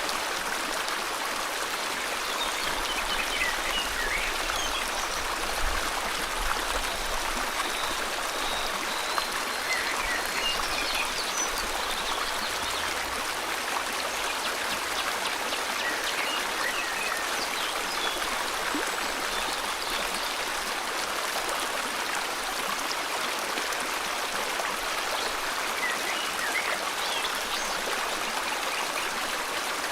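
River water flowing steadily, with faint bird chirps now and then.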